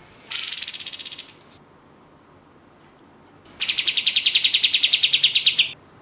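Kapas tembak bulbul giving its rapid rattling 'shot' trill twice: a short burst of about a second, then a longer burst of about two seconds near the end. Both are fast runs of high, clipped notes.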